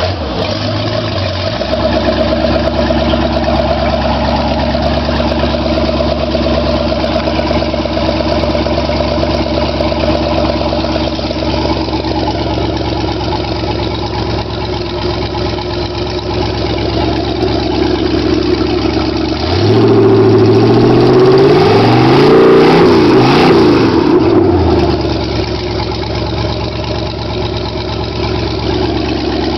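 Rebuilt Chevrolet 350 (5.7 L) small-block V8 marine engine running on its first start after the rebuild. It settles into a steady idle within the first two seconds. From about two-thirds of the way through it is revved up and down for about five seconds, then drops back to idle.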